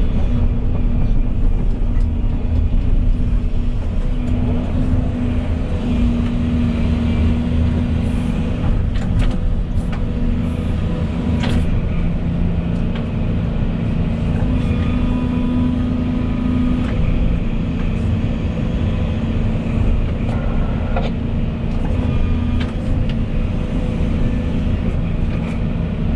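Volvo EC220E excavator's diesel engine running steadily under work, with a few sharp knocks about a third of the way in.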